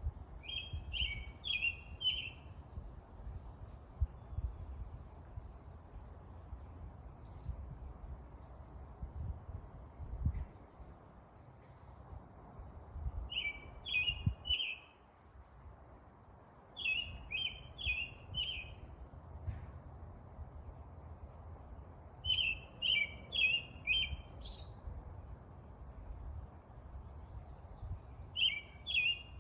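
Songbirds singing: high, short chips repeat throughout, and a lower phrase of four or five quick notes comes back several times. A low rumble runs underneath.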